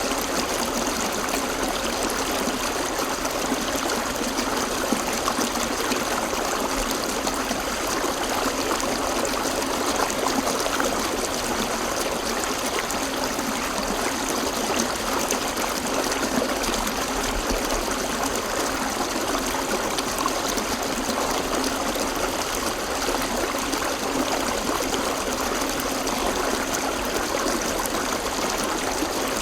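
River water flowing and splashing over rocks: a steady, unbroken rushing.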